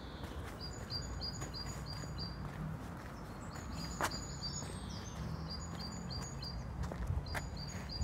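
A small songbird singing a quick two-note phrase, a higher note then a lower one, repeated several times in three or four short bursts. Behind it is a faint steady outdoor background, with a couple of sharp clicks.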